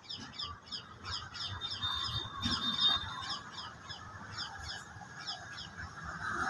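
A small bird chirping over and over, quick high descending chirps about four a second.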